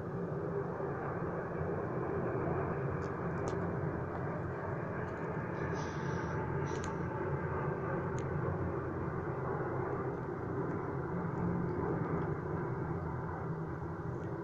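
Airplane engines heard as a steady rumble, with a few faint high ticks in the middle.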